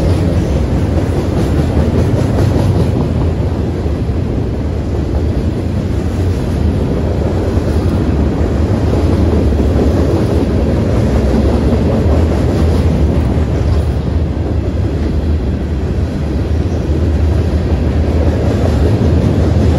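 A freight train rolling past, its cars making a steady low rumble that holds without a break.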